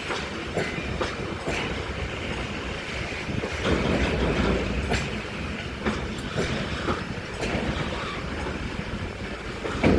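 Freight train wagons rolling past, a steady rumble with the wheels clacking over rail joints about once a second, the loudest clack near the end.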